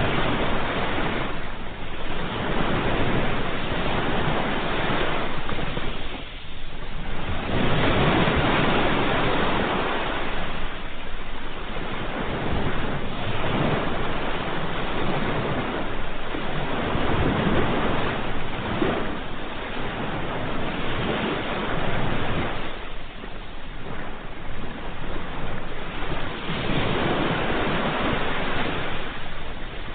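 Ocean waves breaking and washing in, a continuous surf noise that swells and eases every few seconds.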